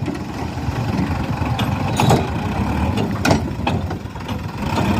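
A tractor's diesel engine running steadily, with a few sharp knocks or clanks over it, the loudest about two seconds in.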